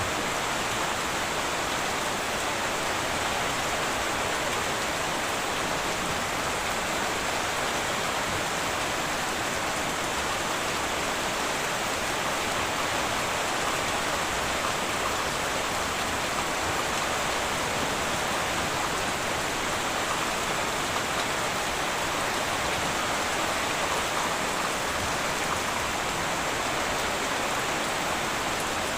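Heavy rain falling steadily on a tin roof, a constant even hiss with no let-up and no thunder claps.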